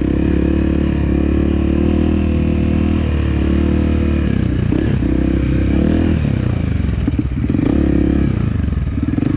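Off-road motorcycle engine running at a steady throttle, then the throttle opening and closing unevenly through the second half.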